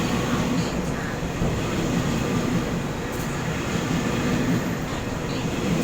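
Electric train running along the platform of an underground station, a steady rumble with no clear clatter or rhythm.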